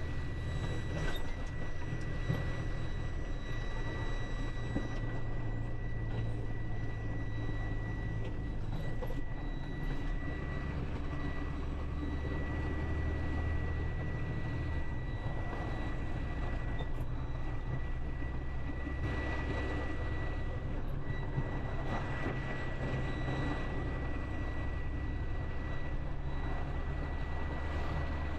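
A semi truck's diesel engine runs with a steady low rumble, heard from inside the cab, with tyre and road noise on a wet road and a thin high whine on top. The engine note shifts a few times as the truck drives.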